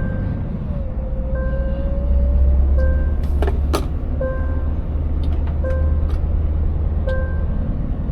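Scania 590S V8 truck engine running, heard as a heavy low rumble from inside the cab; it swells briefly about two seconds in while a tone rises slowly. A short chime-like tone repeats about once a second throughout, and a couple of sharp knocks come near the middle.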